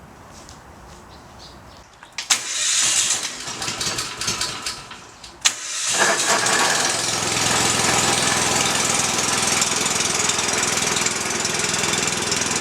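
Walk-behind tractor engine being started: a few seconds of cranking noise and clatter, then the engine catches about six seconds in and settles into a steady run.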